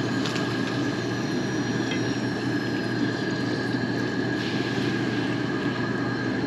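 Potatoes frying in hot grease, the oil sizzling and bubbling steadily over a constant low hum.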